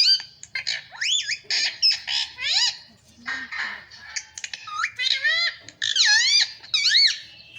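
Pet parrot calling and chattering in quick runs of high, squawky gliding notes, with a short lull about halfway through.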